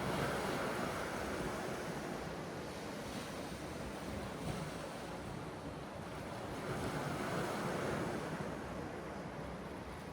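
Sea waves washing ashore in a steady wash of surf, swelling near the start and again about seven seconds in, with some wind buffeting the microphone.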